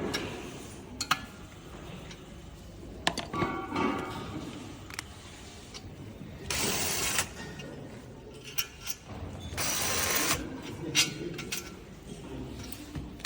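Assembly-line workshop sounds: scattered clicks and knocks of tools and parts being handled, with two short hissing bursts of about a second each, one about six and a half seconds in and one near ten seconds.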